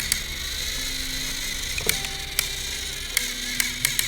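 Battery-powered TrackMaster toy train motors whirring steadily as the engines run against each other, with scattered sharp plastic clicks.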